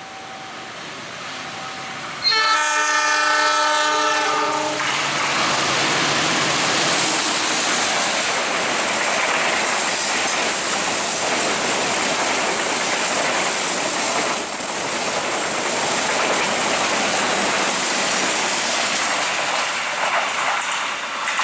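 Diesel locomotive horn sounding one blast of about two and a half seconds as a passenger train passes at speed. After it comes the steady rumble and clatter of the carriages' wheels on the rails.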